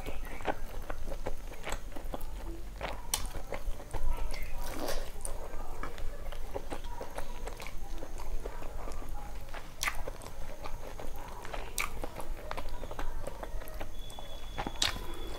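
Close-up mukbang eating sounds: a person chewing mouthfuls of rice and chicken curry eaten by hand, with many short wet mouth clicks and lip smacks scattered throughout.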